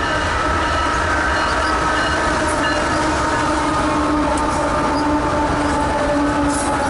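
Union Pacific diesel freight locomotives passing close by: a loud, steady rumble of engines and steel wheels on the rails, with several steady tones held over it.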